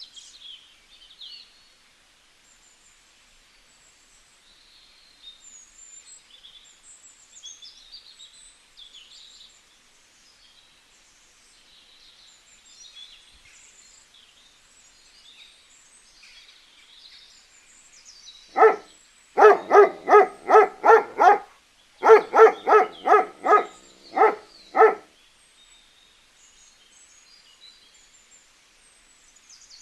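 Faint, high chirping of small birds throughout. From about 19 to 25 seconds comes a loud animal call, repeated about three times a second in two bouts.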